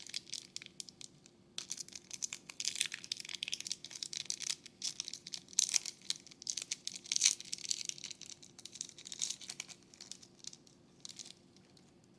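Trading card pack wrapper being torn open and crinkled, an irregular crackly rustle of plastic packaging handled by hand; it pauses briefly early on, then thins out near the end.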